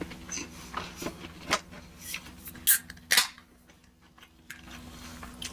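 Close-miked eating sounds: a person biting and chewing food, with a run of short crisp crunches and mouth clicks, the loudest about three seconds in, then a brief lull.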